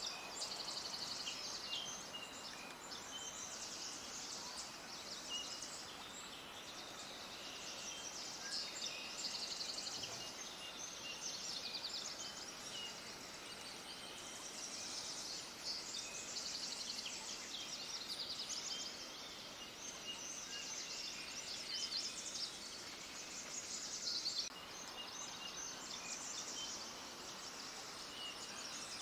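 A chorus of small birds chirping, with many short, rapid, high chirps overlapping without a break, over a faint steady background hiss.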